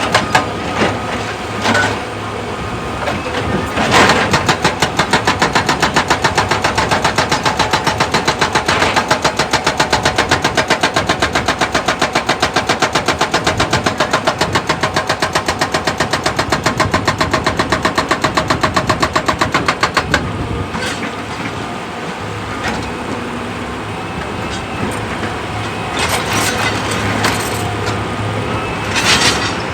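Excavator running under load, with a rapid, even pounding of many strokes a second starting about four seconds in and stopping abruptly about two-thirds of the way through, then the machine runs on.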